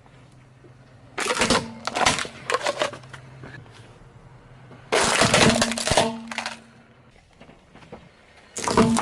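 Three bursts of clattering and crashing, a few seconds apart, with a ringing tone under them.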